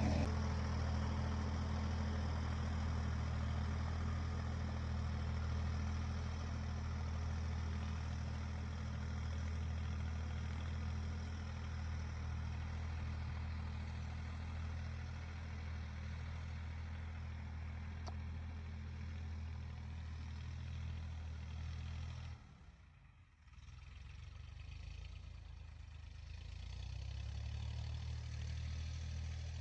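Tractor engine running steadily while ploughing a field, a low even hum; the sound drops away for about a second near the end, then the engine is heard again.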